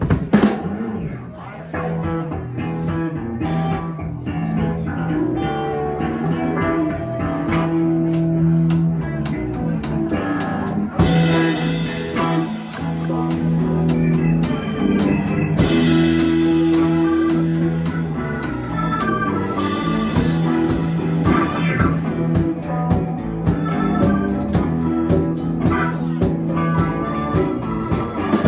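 A live band playing an instrumental passage, with guitar, drum kit and organ.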